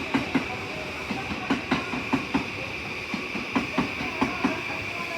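A train rolling past, its wheels clicking over a rail joint in quick pairs: two clicks close together, then a short gap, over and over. A steady hiss runs underneath.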